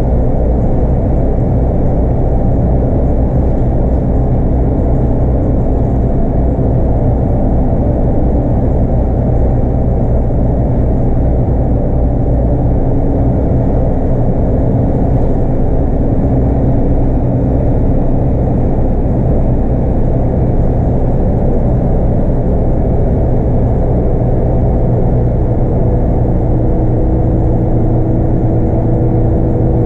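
Scania DC9 five-cylinder diesel engine of a bus running steadily under way, heard on board as a loud, constant low drone with road rumble. Near the end, a steady tone shifts to a new pitch.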